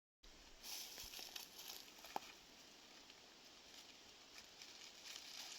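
Near silence with faint rustling and a few light clicks, one a little more distinct about two seconds in.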